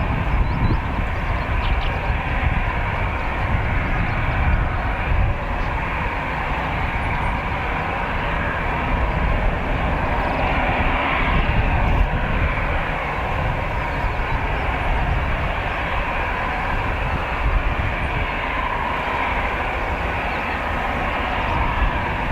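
Airbus A320-214's CFM56 turbofan engines running steadily at taxi power: an even jet rumble and hiss with no change in level.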